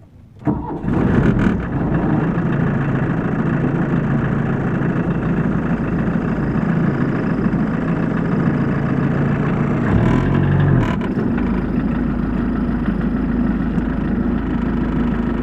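A 1981 Volkswagen Rabbit pickup's 1.6-litre diesel engine starting after its glow plugs have warmed. It catches about half a second in and settles into a steady idle, with a brief change in engine pitch about ten seconds in.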